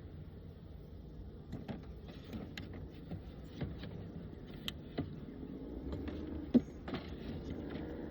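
Honeybees buzzing at an opened long hive, with scattered clicks and knocks as wooden frames and hive parts are handled; one sharper knock about six and a half seconds in.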